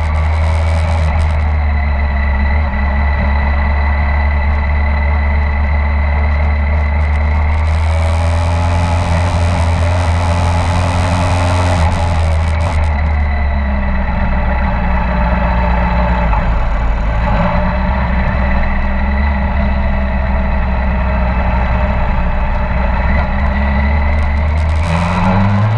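Motorcycle engine running steadily at low revs, heard from onboard, with a loud rushing noise for about five seconds in the middle; near the end the revs rise as it speeds up.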